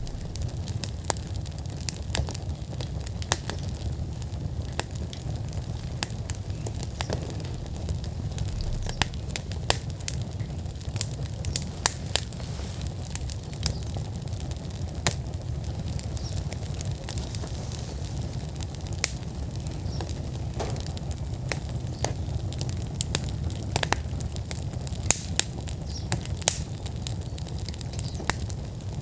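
Wood fire burning in an outdoor fire pit at full burn: irregular sharp crackles and pops, a few louder than the rest, over a steady low rumble.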